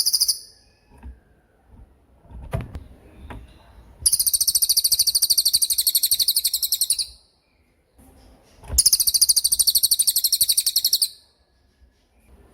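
Cililin bird singing its rapid 'tembakan' trill: a brief high burst at the start, then two long, very fast, high-pitched rattling trills of about three and two seconds.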